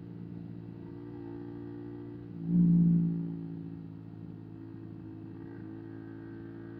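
125 cc single-cylinder motorcycle engine running at a steady pitch, with a brief surge about two and a half seconds in that dies away over the next second.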